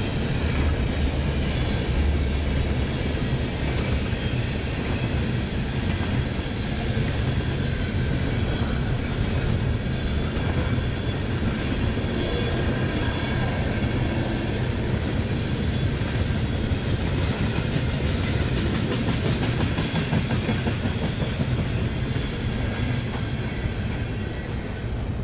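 Freight train cars rolling past, wheels clattering steadily over the rails with a continuous low rumble.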